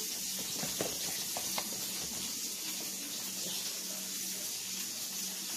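Garlic and onion sizzling in a hot wok, a steady hiss, with a few light clicks in the first couple of seconds.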